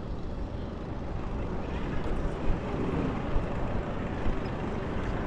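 Steady rush of wind on the microphone mixed with traffic rumble while riding an electric Citi Bike, with a few small knocks and bumps along the way.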